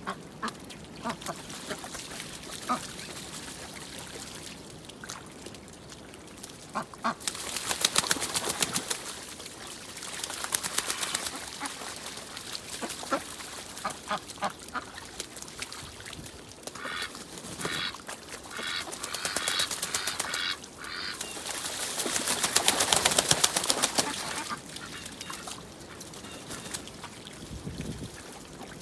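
Ducks quacking and calling again and again, in busy, louder stretches about a quarter of the way in and again near three quarters.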